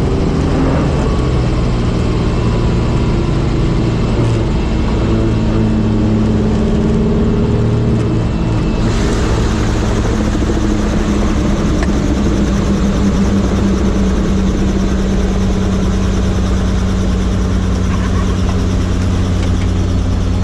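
Helicopter running steadily: a loud, constant low drone of rotor and engine with a hiss over it, which grows brighter about nine seconds in.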